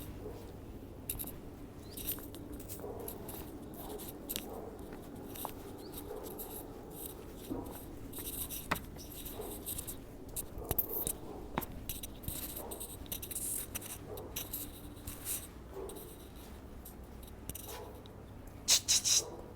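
Husky puppies moving about, with scattered small scratching, clicking and rustling sounds and a louder rustle near the end.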